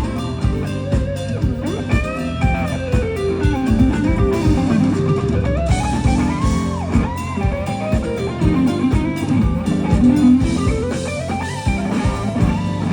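Live rock band playing an instrumental passage: an electric guitar solo, its lead line bending and sliding in pitch over drums and bass.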